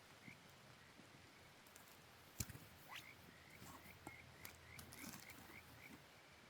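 A frog calling faintly: a run of about ten short rising chirps in the second half, with a sharp click about two and a half seconds in.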